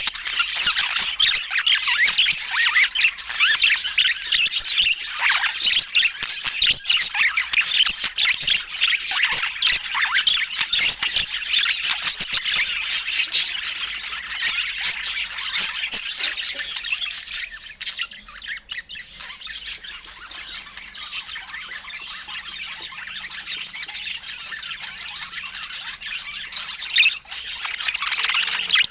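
Budgerigars chattering continuously in quick, high calls, busy for the first half, dropping off briefly a little past the middle, then carrying on more softly.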